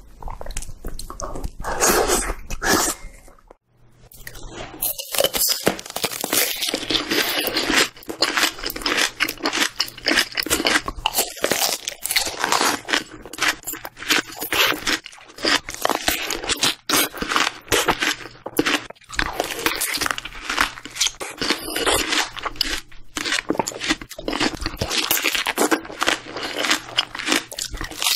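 Crunching of a raw vegetable, then, after a brief gap about three and a half seconds in, repeated crisp bites and juicy chewing of raw pear.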